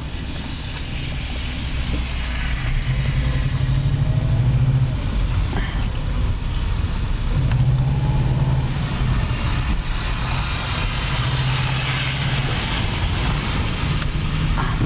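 A car driving, heard from inside the cabin: a steady hiss of tyre and road noise under a low engine hum that swells and fades three times.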